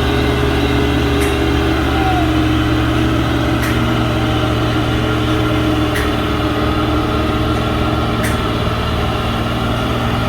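Heavy truck's diesel engine running steadily at a constant note, with a faint sharp click about every two and a half seconds.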